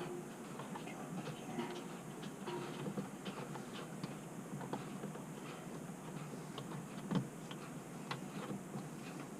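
Light, irregular metallic clicks and taps of small hand tools and parts being worked on a bilge pump's aluminium casing, with one louder knock about seven seconds in.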